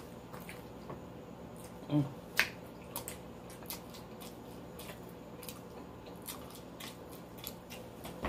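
Close-up mouth sounds of someone chewing a big mouthful: scattered wet clicks and smacks. There is a short hummed 'mm' about two seconds in.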